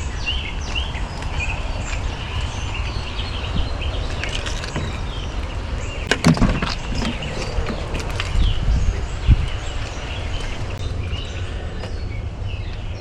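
Birds chirping over a steady background of rain, with a couple of knocks about six seconds in and a sharper one a little past nine seconds.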